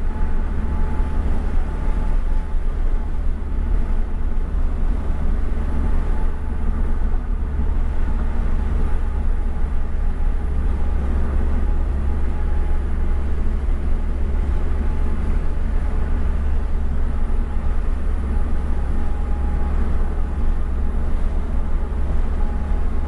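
Inside the cabin of a Subaru-engined sports coupe cruising along the road: its flat-four engine, fitted with an aftermarket exhaust, runs at a steady pace under a heavy low rumble of road and engine noise.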